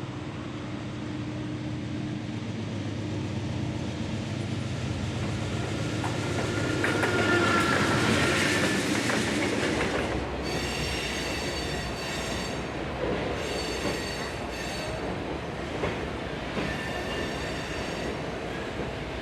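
A diesel-hauled train passing: the locomotive's engine grows louder to a peak about eight seconds in, then the cars roll by with a high-pitched wheel squeal coming and going and a few sharp clicks of wheels over rail joints.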